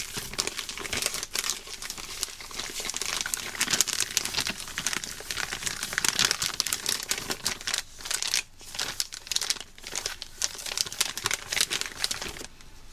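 Plastic flameless ration heater bag crinkling as it is kneaded and handled, in close, irregular crackles with a brief lull a little past the middle.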